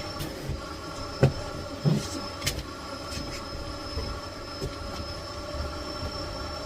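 Miele Blizzard CX1 Cat & Dog Powerline bagless cylinder vacuum cleaner running with a steady whine, with a few short knocks between about one and two and a half seconds in.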